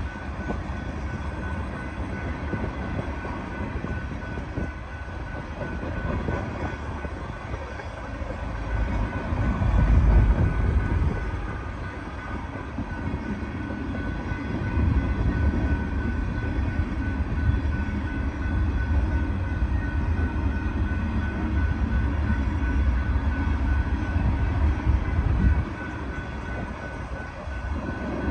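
Loaded freight cars of a Norfolk Southern sand train rolling slowly past, their steel wheels rumbling over the rails. The rumble swells and falls and drops off suddenly near the end as the last car goes by.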